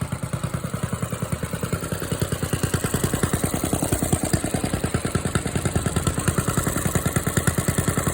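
Small pull-start engine running on its own after a cold start, warming up, with a rapid, even firing beat that grows a little louder a couple of seconds in.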